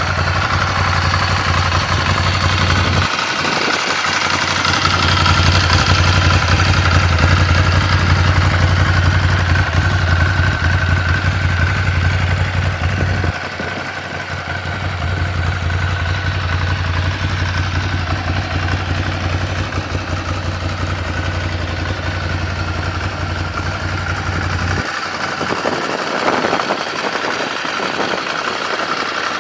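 Ducati Scrambler Full Throttle's air-cooled 803 cc L-twin idling steadily, with no revving. Its deep low rumble fades and comes back a few times.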